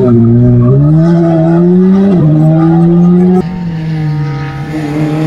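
Rally car engine revving hard as it accelerates away, its pitch climbing, with an upshift about two seconds in. A little past three seconds the sound drops abruptly to a quieter, steadier engine note of another rally car.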